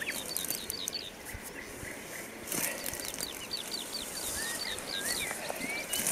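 Several songbirds singing: runs of short, high repeated notes and slurred whistles. A brief rustle about two and a half seconds in.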